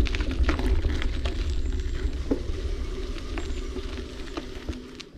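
Mountain bike rolling over a dirt and gravel trail: crackling tyre noise with scattered clicks and rattles, over low wind rumble on the microphone. It fades and drops off sharply near the end.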